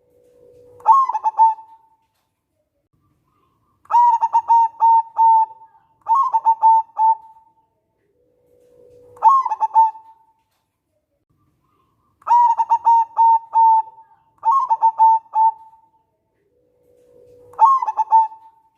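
Zebra dove (local perkutut) singing: seven phrases of quick staccato cooing notes, each about one to one and a half seconds long, with pauses of a second or two between them. Several phrases open with a low drawn-out note that jumps up into the rapid coos.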